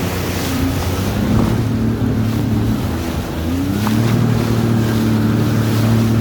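Jet ski engine running, its pitch dipping and then climbing about three and a half seconds in as the throttle opens, with water rushing and wind on the microphone.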